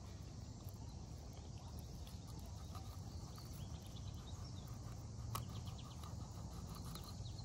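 Faint ticks and light scraping of a fillet knife cutting down a perch's rib cage on a plastic cutting board, over a low steady background hum, with one sharp click about five seconds in.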